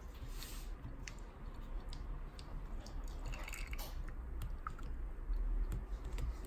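Scattered small clicks and light knocks from an Aram manual espresso maker being handled, with a short hiss about halfway through and a firmer knock near the end, over a low rumble.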